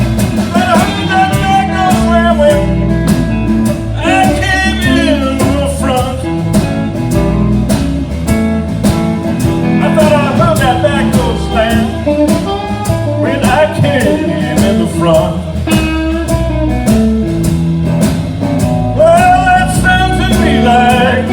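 Live blues instrumental intro: a blues harmonica plays bending lead phrases over a guitar accompaniment keeping a steady beat.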